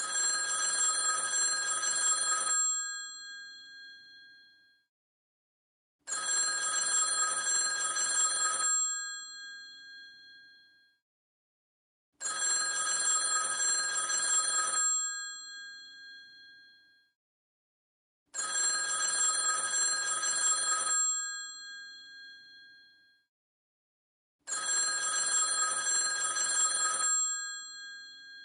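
An old telephone's bell ringing five times in an even ring cadence: each ring lasts about two and a half seconds and starts about six seconds after the last, and the bell tones fade out after each ring.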